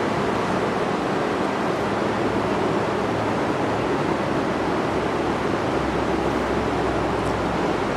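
Steady, unbroken rush of water with no swells or breaks, with a faint low rumble beneath it.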